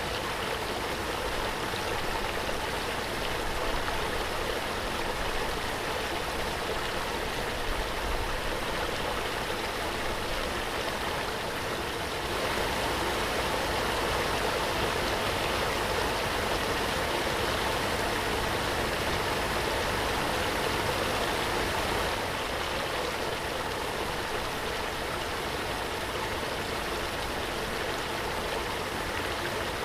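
Waterfall: a steady, dense rush of falling water, a little louder for about ten seconds in the middle.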